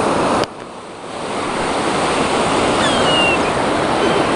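Surf washing on the shore with wind on the microphone, a loud steady rush of noise. It drops off sharply about half a second in and swells back up over the next second.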